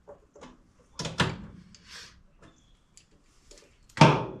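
A few knocks and clatters of hand tools and small parts being handled, a cluster about a second in and the loudest knock near the end.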